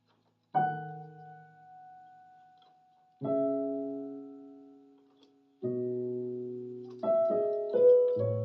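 Keyboard playing a slow Korean drama theme in a piano sound. Three chords are struck a few seconds apart and each is left to ring and fade, then quicker notes follow near the end.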